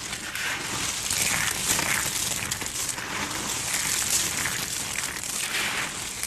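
Continuous crisp crunching and crackling of something brittle being crushed, dense with fine crackles.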